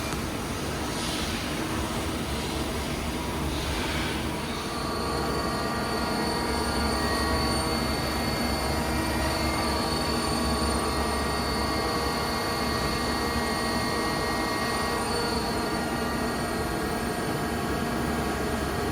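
Mazak QT30 CNC lathe spindle drive running at steady speed, a mechanical hum with several steady whining tones. About four and a half seconds in the speed changes and it gets slightly louder, then holds steady.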